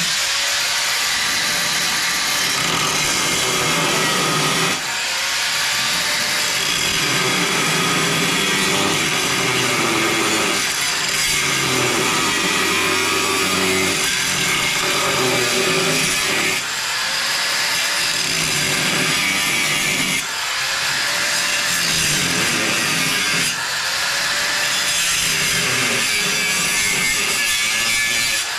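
A power tool cutting metal, running steadily through several short back-to-back edited segments, with a few abrupt changes where one segment cuts to the next.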